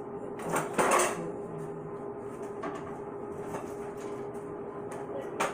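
Utensil stirring macaroni and cheese in a bowl: soft scraping and knocking, with a louder clatter about a second in and a sharp knock near the end, over a steady hum.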